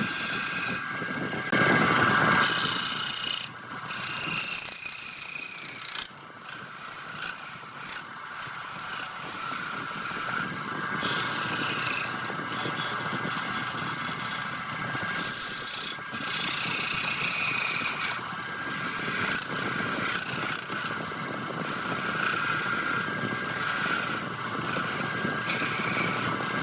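Wood lathe running with a hand tool scraping and cutting the spinning redwood, over a steady hum from the machine. The scraping breaks off briefly every couple of seconds as the tool is lifted and set back on the wood.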